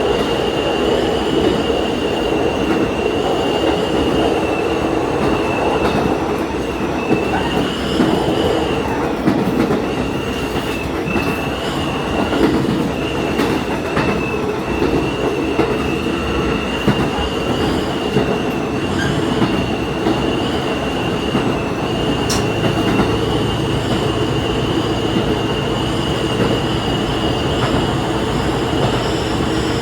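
Diesel railcar running along the line, heard from inside the train: a steady rumble of wheels on rail with a steady high-pitched whine throughout and a few scattered clicks.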